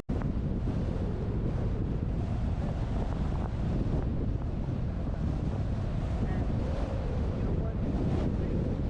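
Steady wind buffeting the microphone of a roof-mounted action camera on a moving truck, a dense low rumble with a split-second dropout right at the start.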